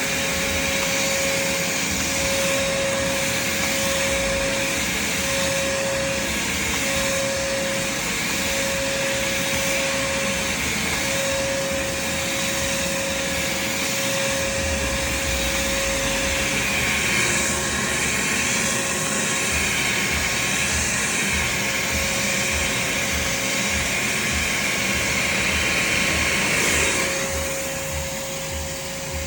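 Craftsman shop vac running steadily, a loud rush of air with a held whine. Near the end the sound changes and drops a little as the airflow shifts.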